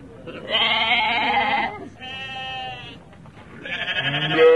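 An animal calling three times. Each call is a wavering, drawn-out cry of about a second; the last is lower and the loudest.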